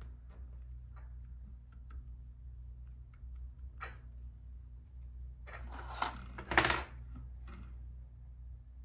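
Small hard parts and tools being handled on a workbench during a camera lens repair: a few light clicks, then a brief clatter about six seconds in, peaking in one sharp clink.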